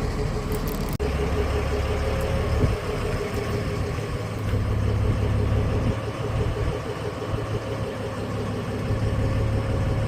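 An engine idling steadily, with a brief break about a second in.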